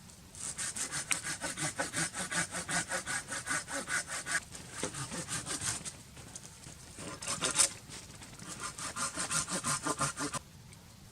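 Hand saw cutting through firewood in quick back-and-forth strokes, about four a second, in several runs with short pauses. There is one sharper, louder crack about seven and a half seconds in, and the sawing stops shortly before the end.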